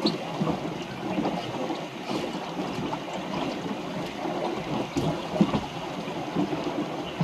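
Water rushing and splashing along the hull of a small wooden sailboat under way, with irregular small knocks and slaps throughout.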